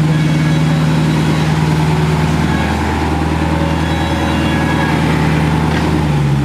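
Car engine idling steadily close by, its low note dropping a little near the end.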